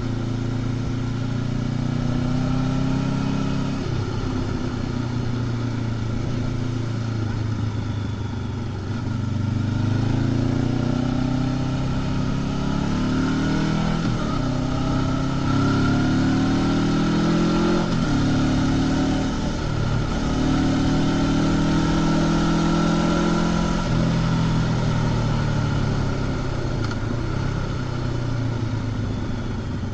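Honda CB500X parallel-twin engine through its stock exhaust, heard from the rider's seat while riding. The revs climb and fall back again and again, every four to six seconds, over steady road and wind noise.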